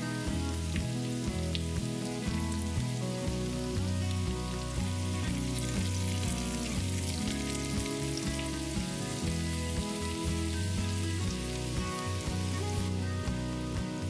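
Sliced carrots and garlic sizzling in oil in a frying pan, with background music and a repeating bass pattern underneath.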